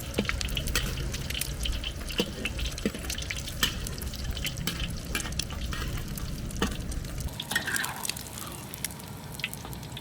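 Wok cooking at a street-food stall: a metal utensil clicks and scrapes against the pan, with liquid stirring and dripping, over a low rumble that drops away about seven seconds in.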